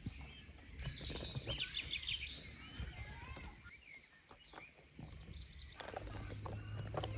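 Wild birds chirping and singing, with a brief rapid trill a second or two in. A couple of sharp clicks come near the end.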